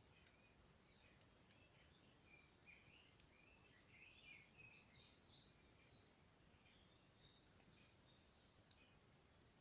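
Near silence: faint birdsong of short chirps, busiest about four to six seconds in, with a few faint ticks scattered through it, the sharpest about three seconds in.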